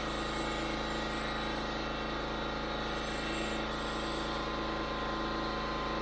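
Air compressor running steadily while a paint spray gun sprays high build primer, its high air hiss starting and stopping in bursts of about two seconds as the trigger is pulled and released.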